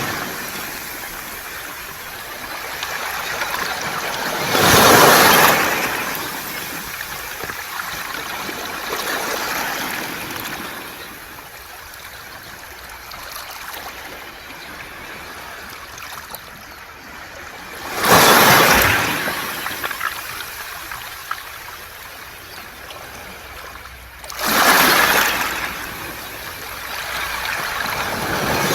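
Waves breaking on a beach of round pebbles, each wave a loud surge followed by a long hiss as the water drains back through the stones. The surges come about five, eighteen and twenty-five seconds in.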